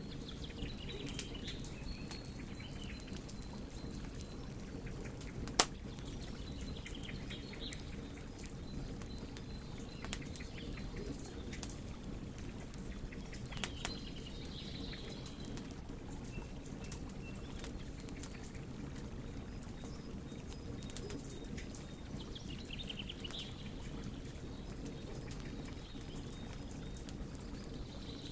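Burning wood fire crackling, with a steady low rustle under scattered small pops and one sharp, loud crack about five and a half seconds in.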